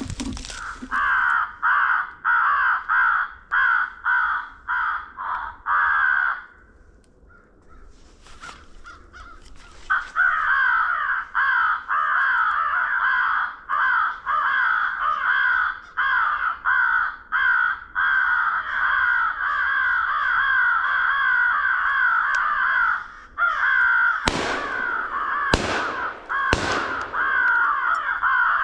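Crows cawing in a dense, continuous run of harsh repeated caws, broken by a lull of a few seconds early on. Three sharp cracks come about a second apart near the end.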